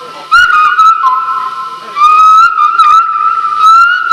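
A loud, shrill whistle held on one high pitch with slight wavers and small trills, sounded as two long notes: the first from about a third of a second in, the second from about two seconds in.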